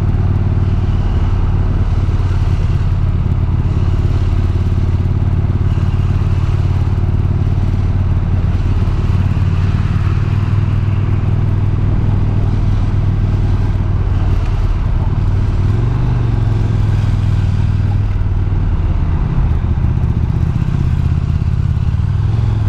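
Harley-Davidson V-twin motorcycle engine running steadily at low road speed, heard from the bike, with a loud, even low engine note that lifts slightly in pitch once about two-thirds of the way through.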